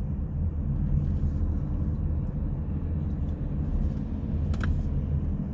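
Steady low rumble of a running vehicle, with no other event standing out.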